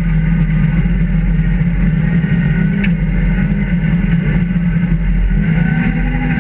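Rally car engine running hard in third gear, heard from inside the cabin, its pitch climbing slightly near the end. A brief click sounds about three seconds in.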